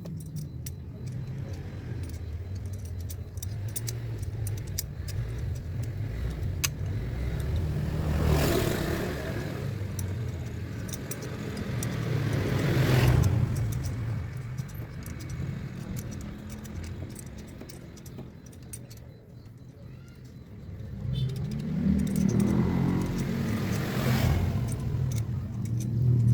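A motor vehicle engine running with a low rumble, swelling and falling away three times, with light metallic clicks scattered over it.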